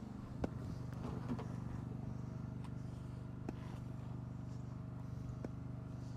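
Small lawn mower engine running steadily at a low, even speed, heard faintly, with a few light clicks or knocks over it.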